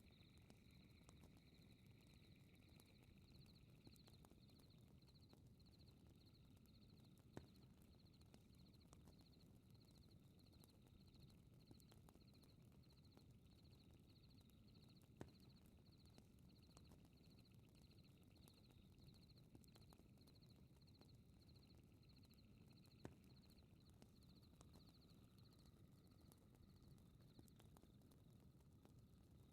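Faint night ambience: insects, likely crickets, chirping in a steady high pulse about twice a second over a low rumble of fire. A single sharp crackle from the fireplace pops about every eight seconds.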